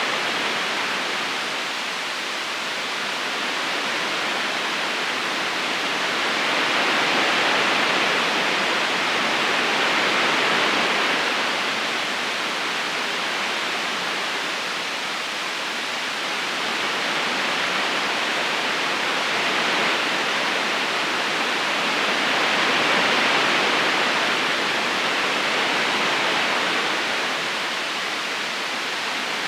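River current rushing steadily over stones, a continuous watery hiss that slowly swells and eases every several seconds.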